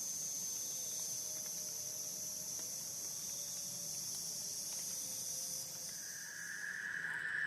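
Steady high-pitched drone of calling insects, such as crickets. About six seconds in, a second, lower-pitched steady trill joins.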